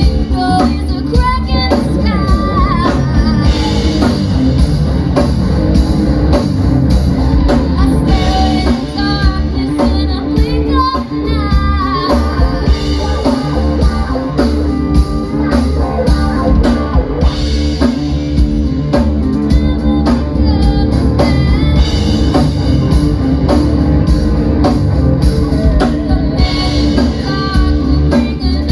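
Live rock band playing loudly, with drum kit, guitar and a lead singer.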